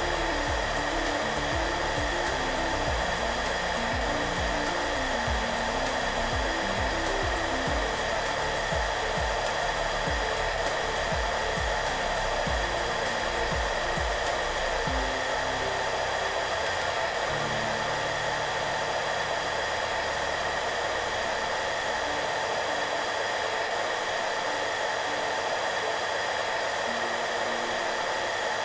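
Hair dryer running steadily: an even rushing noise with a couple of steady tones in it, under soft background music. The music's low notes drop away about halfway through.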